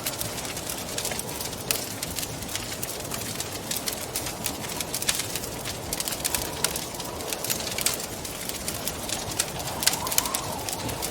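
Wood fire crackling with many sharp pops and snaps over a steady rush of wind; near the end a soft howl of wind rises and falls.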